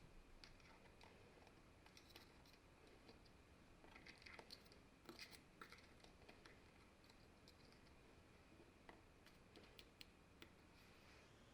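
Faint, scattered clicks and light scrapes of small parts being handled, thickest a few seconds in.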